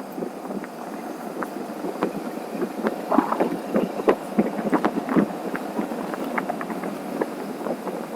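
Wind buffeting the microphone on a moving motorcycle, with a steady rush and many short irregular thumps and pops.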